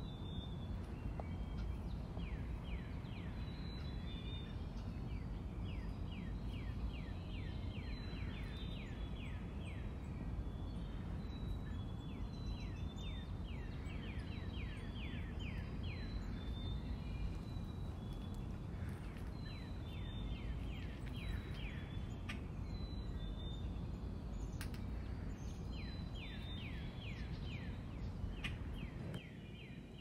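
A songbird singing a repeated phrase of quick, falling notes every few seconds, with short high chirps between phrases, over a steady low outdoor rumble.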